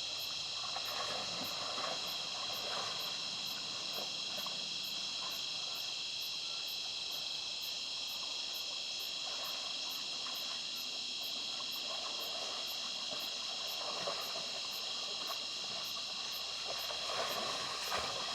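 Night chorus of crickets and other insects, a steady high chirring with a separate very high pulse repeating about twice a second. Soft rustling and small clicks come and go underneath.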